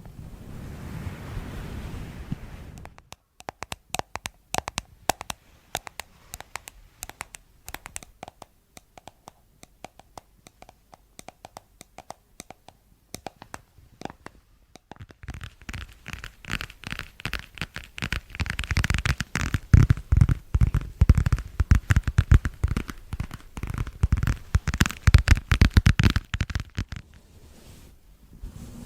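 Crackling and scratching clicks, sparse at first, then dense and louder for about the second half, between stretches of soft hiss.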